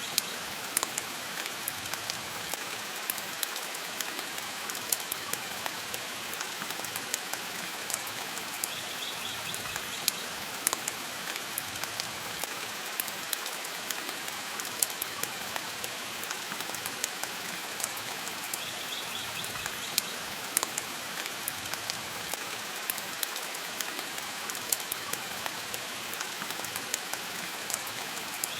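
Steady rain with a wood fire crackling in a fireplace: a constant hiss with sharp pops scattered irregularly.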